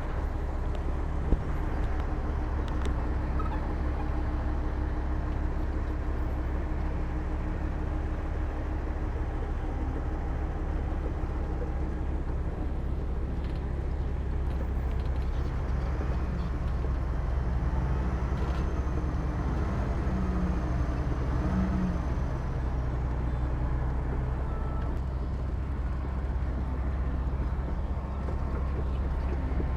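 Heavy diesel construction machinery running steadily with a deep, constant rumble. A single sharp click comes about a second in.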